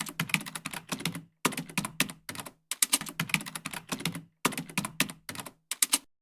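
Rapid typing keystrokes, clicking in about five quick runs separated by short silences.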